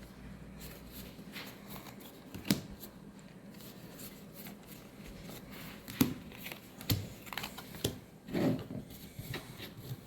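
Magic: The Gathering cards being handled and flipped through: faint rustling with scattered sharp clicks and snaps, the loudest about two and a half seconds in.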